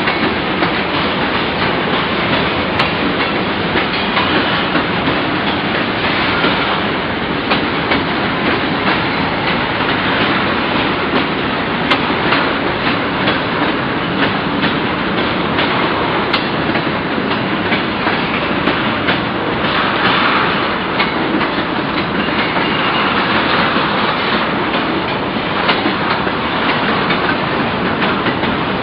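Freight cars of a manifest train rolling past: tank cars, covered hoppers and boxcars. Their steel wheels make a steady loud rumble with a continual clickety-clack of clicks.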